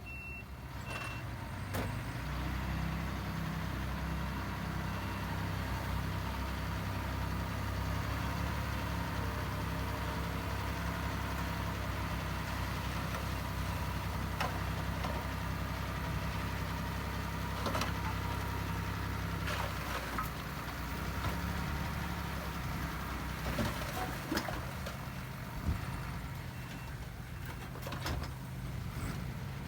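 Heavy diesel earthmoving machinery running steadily with a low engine drone, which eases off about two-thirds of the way through. A few sharp knocks come in the latter part, and faint reversing beeps sound near the start and again near the end.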